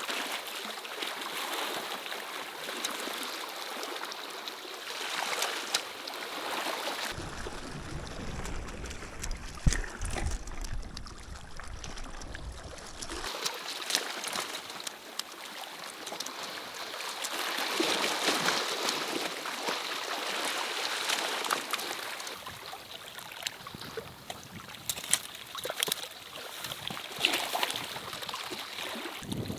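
Running, trickling water with scattered sharp ticks. From about 7 to 13 seconds in, a low rumble comes in and the high hiss drops away.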